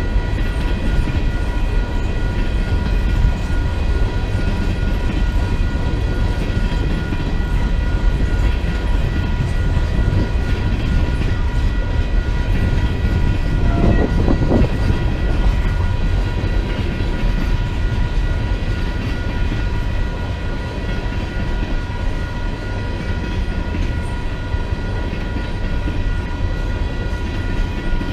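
Freight train rolling past: a steady, heavy rumble of cars on the rails, with a few thin steady high tones held over it throughout.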